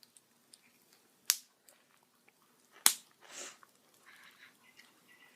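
Bonfire crackling: two sharp, loud pops of burning wood, about a second apart and a second and a half apart, the second followed by a brief hiss, with faint small crackles between.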